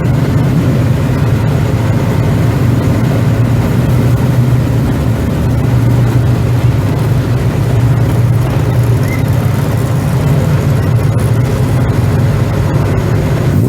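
Steady low rumble of an idling engine, without change in pitch.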